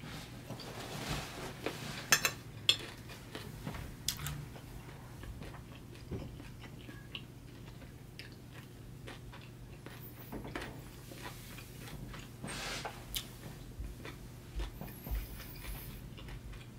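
Close-miked chewing and wet mouth sounds of someone eating a mouthful of food, with a few sharp clicks about two seconds in.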